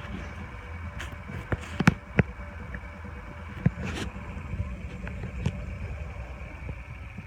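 Car engine idling, a steady low rumble, with a few sharp clicks and knocks of a phone being handled scattered through it.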